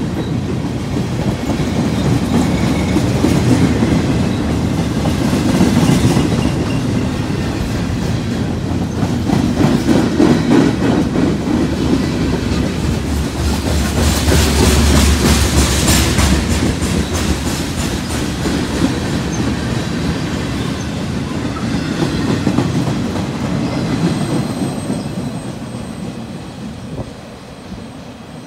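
Union Pacific freight cars rolling past: a continuous rumble with wheels clicking over the rail joints. The sound fades in the last few seconds as the end of the train pulls away.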